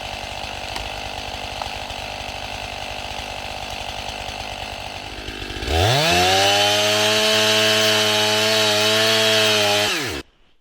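Chainsaw idling, then throttled up to a high steady rev for about four seconds, then dropping off and shutting down just before the end.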